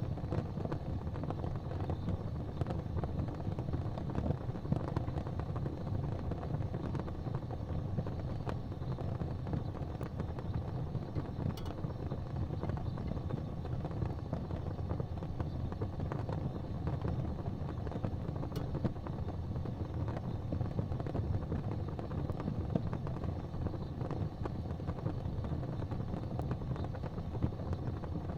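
Fireplace fire burning: a steady low rumble with a few faint crackles.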